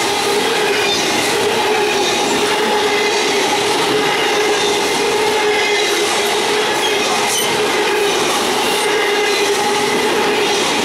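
Double-stack intermodal well cars of a freight train rolling past close by: steady rumble of steel wheels on rail, with a steady whine held over it.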